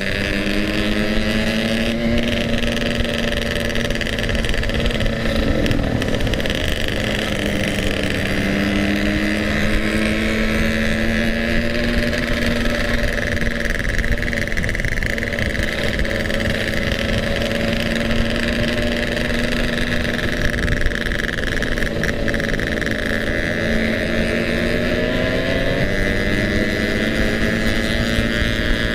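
Yamaha RX-King two-stroke single-cylinder engine running under way as the bike is ridden. The revs climb just after the start, stay fairly steady with a brief dip, then climb again near the end.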